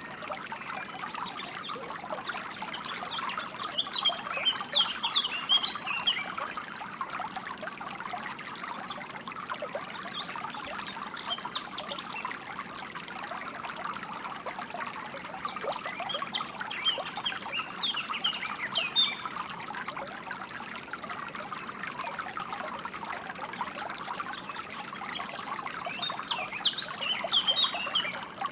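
Water trickling and burbling steadily, as in a small stream, with birds chirping in four short flurries of high, quick notes a few seconds apart.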